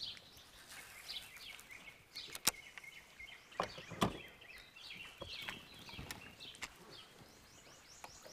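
Birds singing and chirping faintly in the trees along the shore, with a few sharp clicks and knocks, the loudest about two and a half and four seconds in.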